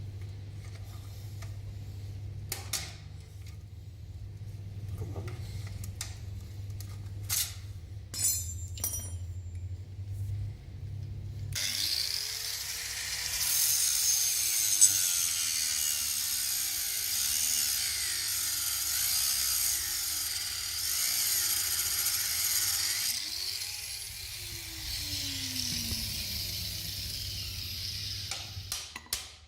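Workshop tool work: first a low steady hum with scattered clicks and knocks of handling, then, about eleven seconds in, a power tool starts with a loud steady hiss and rising and falling pitch sweeps, and it stops after about a dozen seconds.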